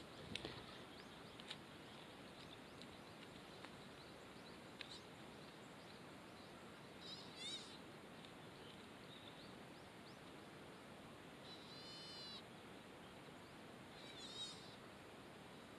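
Near silence with a faint outdoor hiss and a few faint ticks in the first seconds. A bird gives three short, high calls: one about halfway through and two near the end.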